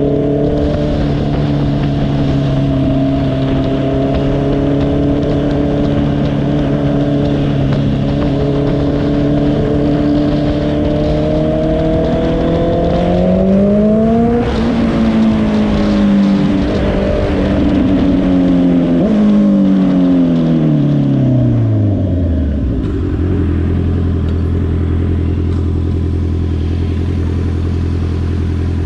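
2022 Honda CBR650R's inline-four engine running at steady revs. The revs rise briefly about 14 seconds in, then fall away over several seconds as the bike slows. The engine settles to a steady idle about 23 seconds in, and the rush of wind dies down with it.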